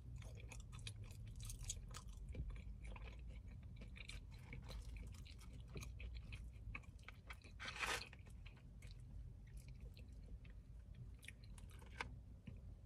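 A person chewing a mouthful of queso-covered fries: soft, wet mouth clicks and crunches, faint, over a steady low hum, with one louder mouth noise about eight seconds in.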